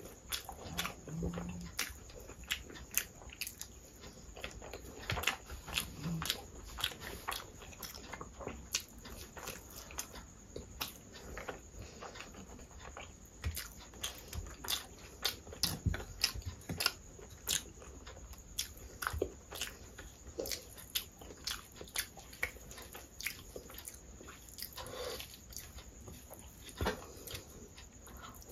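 Close-up eating sounds: wet chewing and many irregular sharp mouth clicks as rice and curry are eaten by hand.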